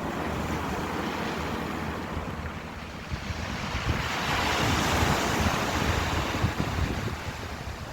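Ocean surf: a continuous wash of waves that swells to a louder break about halfway through and falls away near the end, with a low rumble of wind on the microphone.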